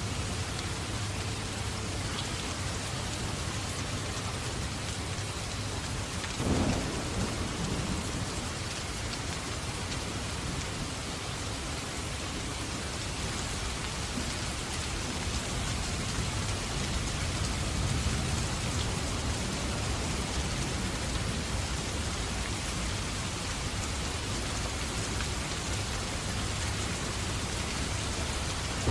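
Steady rain, with a low rumble underneath. One short crack stands out about six and a half seconds in.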